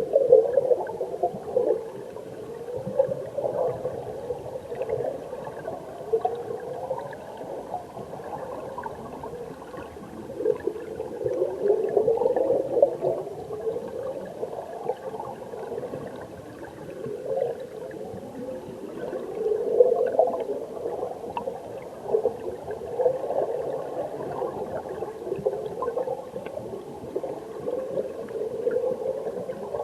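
Flowing stream water heard underwater: a continuous muffled bubbling and gurgling of the current, swelling and easing every few seconds.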